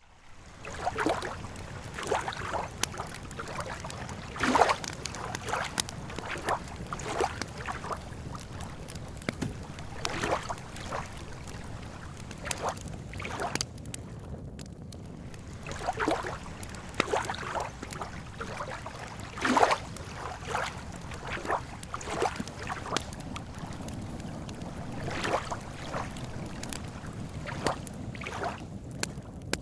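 Campfire crackling with sharp irregular snaps, over water lapping at a lakeshore and a steady low background.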